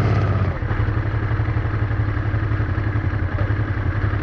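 Honda Transalp XL650V's V-twin engine running steadily under way, its low note easing off slightly about half a second in.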